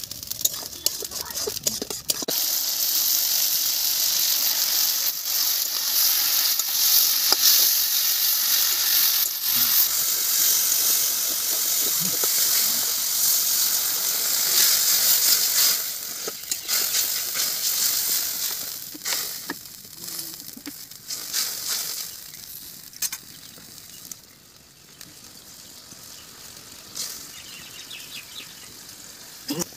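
Vegetables frying in hot oil in a metal kadai. A loud, steady sizzling hiss starts about two seconds in and fades after about sixteen seconds, as water is added and the pan steams, to a quiet simmer with occasional clicks.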